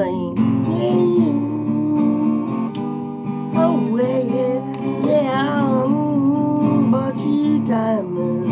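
Acoustic guitar strummed steadily, with a voice carrying a wavering melody over the chords in the middle of the passage.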